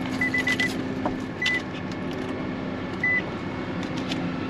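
Short high electronic beeps, a quick run of four and then single beeps spaced out, over a steady low hum and scattered light clicks, during an attempt to start a car whose battery is very weak.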